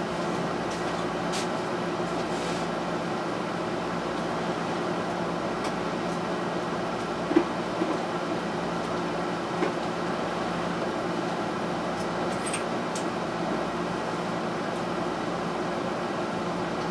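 Steady machine hum like a fan or air conditioner running, with a few light clicks and knocks of small parts being handled about halfway through and again later on.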